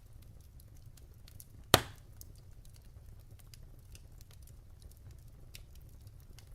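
Wood fire crackling in a fireplace: scattered small snaps over a low steady rumble, with one loud pop about two seconds in.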